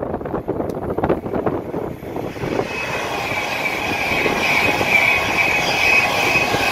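Avanti West Coast Class 390 Pendolino electric train passing at speed: a growing rush of wheels on rail and air, loudest about five seconds in, with a steady high-pitched whine over it from about two seconds in.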